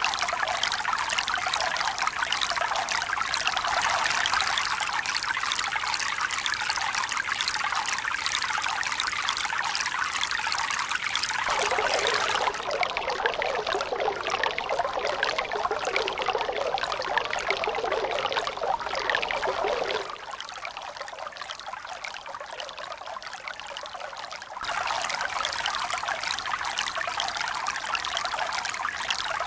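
Running water trickling and splashing in a steady rush, its sound changing abruptly about a third of the way in, dropping quieter about two-thirds in and returning about five seconds later.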